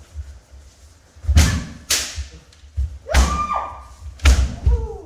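Kendo practice: four sharp cracks of bamboo shinai striking armour, each landing with a heavy thud of a stamping foot on the wooden dojo floor. Shouted kiai follow the later strikes.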